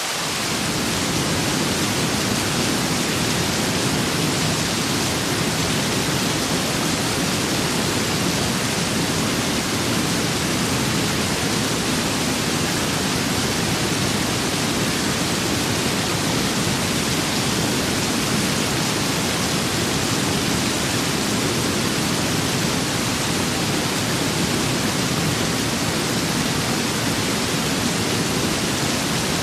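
Steady rain with wind: an even hiss across the whole range, with a lower rush that comes in at the very start and then holds level.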